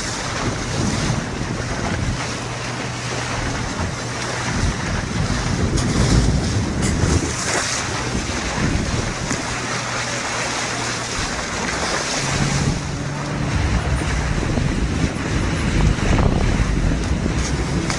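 Motorboat under way at sea: the rush of water and waves along the hull with wind buffeting the microphone, over a low, steady engine hum that shifts slightly in pitch now and then.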